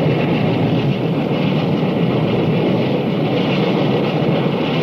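Union Pacific Big Boy articulated steam locomotive under way with a train, heard as a steady, loud, dense rush of noise on an old film soundtrack.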